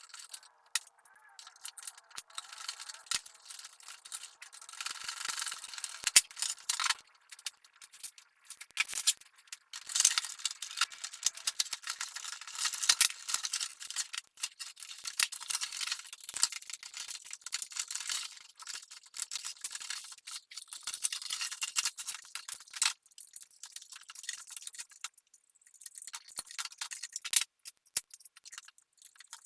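Irregular clicks, taps and short rattles of small hard parts being handled and worked on by hand, with a sharper knock about six seconds in and another about thirteen seconds in.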